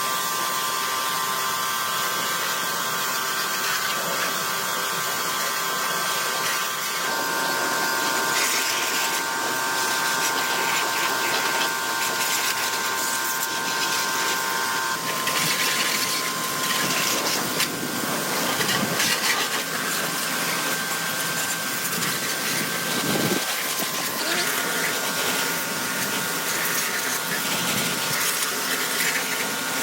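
An electric power tool running steadily: a motor whine over a broad hiss, with the work noise shifting in strength every few seconds.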